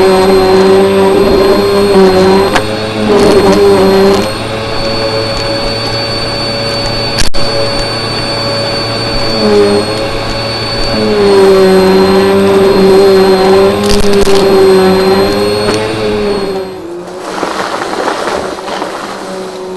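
Vacuum cleaner running: a steady motor hum with a thin high whine over it, its pitch sagging and recovering a few times. A sharp click comes about seven seconds in, and near the end the hum gives way to a rougher rushing noise.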